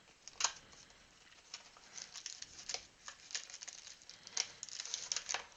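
Trading-card packs being pulled out of a cardboard hobby box and set down: scattered light rustles and clicks, a sharper click about half a second in and a quicker run of them near the end.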